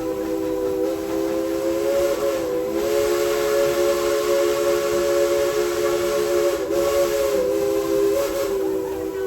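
Tweetsie Railroad No. 190's newly fixed steam whistle blowing one long, held blast of three notes sounding together, wavering briefly a few times. It is heard over the hiss of steam.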